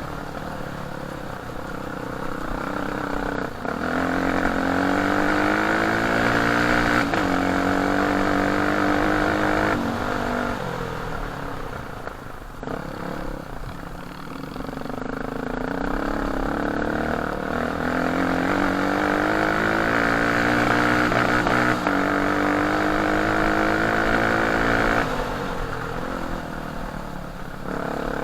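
Enduro motorcycle engine running under way, its revs climbing in steps as it accelerates through the gears, easing off about halfway, then climbing again and dropping near the end.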